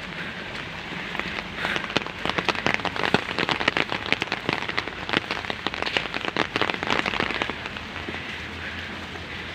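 Heavy rain falling, with a dense spell of sharp, close drop hits on a surface from about a second and a half in until about seven and a half seconds, then back to a steady rain hiss.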